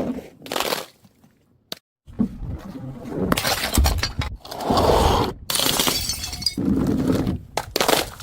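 Glass bottles shattering as they hit stairs: a series of crashes with tinkling shards, a brief quiet pause about a second in, then dense breaking and rattling glass.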